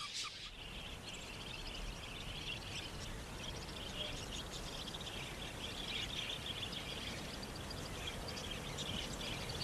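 Budgerigars chirping: a steady, dense chatter of many small high chirps over a low background hiss.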